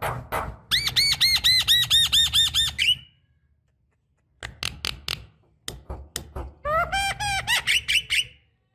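Javan myna (jalak kebo) calling: a few harsh clicking notes, then a fast run of about a dozen repeated arched whistled notes. After a short silence come more clicks and a second fast series of rising notes near the end.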